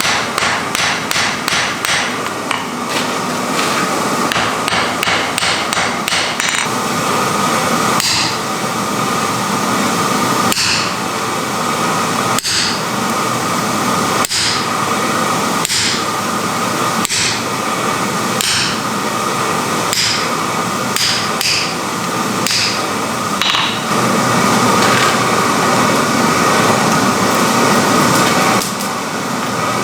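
Hammer blows forging iron: a quick, even run of about four strikes a second for the first six seconds, then slower single blows with a high metallic ring every second or two. A steady rushing noise runs underneath.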